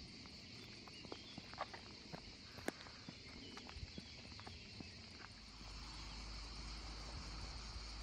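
Faint outdoor ambience of insects chirping steadily, with a few scattered clicks and taps in the first five seconds and a low rumble coming in about halfway through.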